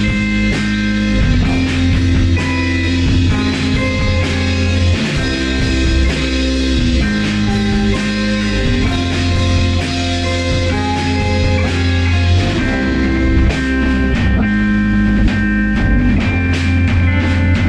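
Rock band rehearsing an instrumental passage in a psychedelic rock style: guitar over low bass notes that change every second or two, with drums. The cymbal hits grow busier near the end.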